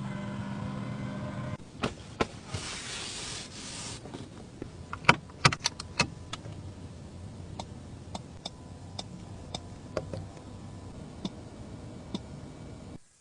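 A car's electric motor hums steadily for about a second and a half, then a short hiss, followed by a run of sharp clicks and taps, densest a few seconds in.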